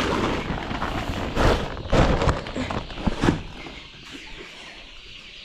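A run of knocks and rattles, as of the poultry house's main door being unfastened and opened, with chickens faintly in the background.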